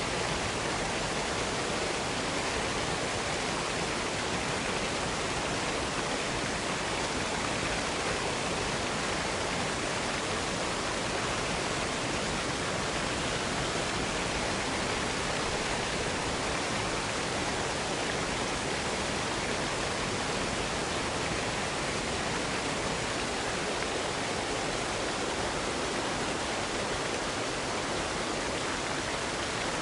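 Waterfall pouring steadily: an even, unbroken rush of falling water with no breaks or separate splashes.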